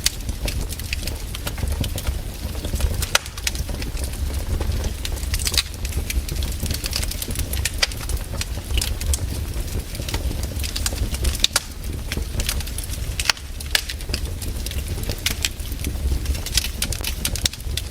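Wood fire in a fireplace crackling, with irregular sharp pops and snaps, a few louder than the rest, over a steady low rumble of the flames.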